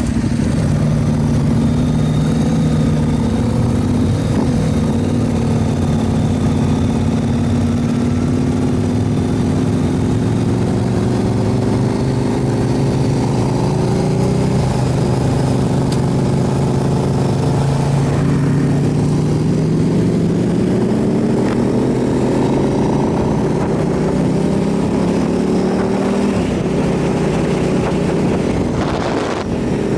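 KTM 990 SMR supermoto's V-twin engine running while riding, its pitch slowly rising and falling with the throttle and gear changes.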